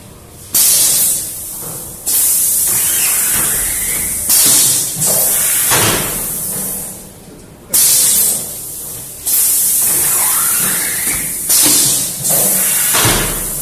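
Automatic rotary screen printing machine running, its pneumatic cylinders venting compressed air in a series of sharp hisses every second or two. A faint rising whine comes twice.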